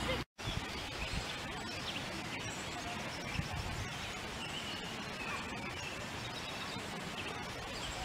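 Small birds chirping and calling faintly over a steady background hiss, broken by a brief gap of silence just after the start.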